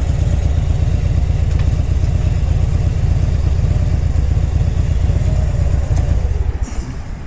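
Harley-Davidson Fat Bob's V-twin engine idling with a pulsing beat. Near the end it is switched off and the beat breaks up and dies away.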